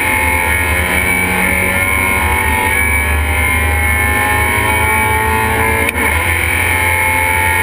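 Race car engine heard from inside the stripped, caged cabin, pulling hard with its pitch climbing steadily. About six seconds in it breaks off briefly for a gear change, then pulls on.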